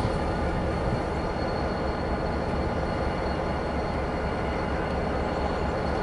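Diesel freight locomotive running with a steady low rumble and a faint steady whine above it.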